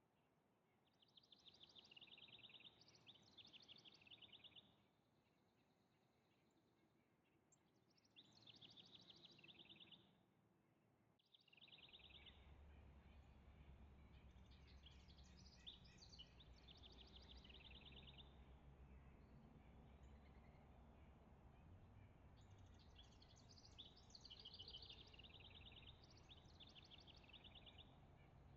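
A songbird singing in several separate phrases of rapid repeated, trilled notes, with pauses between them. About a third of the way in, a low steady background rumble starts and continues under the song.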